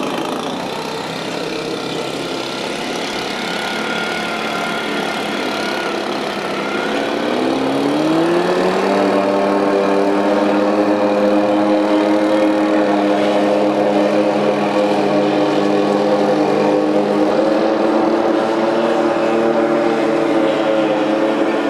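Antique outboard motor running on a boat; about seven seconds in its pitch climbs as it speeds up, then it holds steady at the higher speed.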